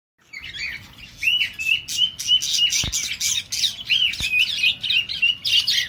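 Budgerigars chirping and chattering: a quick, unbroken run of short high chirps and warbles that starts about half a second in.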